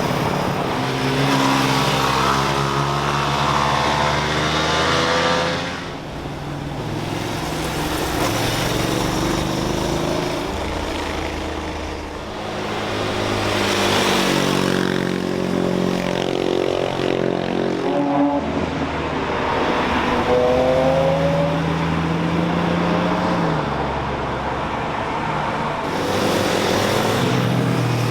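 High-revving engines of sport motorcycles and cars passing one after another through a bend, about four or five passes in turn. Each engine's pitch climbs and falls as the rider or driver brakes, shifts gears and accelerates out of the corner.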